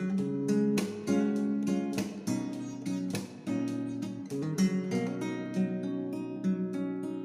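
Music: an acoustic guitar strummed in a steady rhythm of evenly spaced chord strokes.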